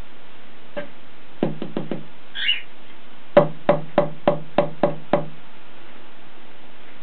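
Knocking on something hollow: a quick run of four knocks, a single short high chirp from the cockatiel, then six evenly spaced knocks at about three a second.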